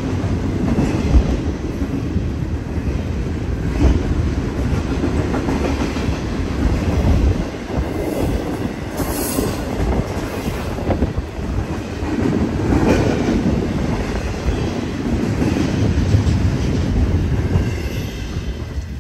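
Double-stack intermodal container freight train passing close by: a steady rumble of wheels on rails with occasional sharp clacks. The sound drops away near the end as the last car goes by.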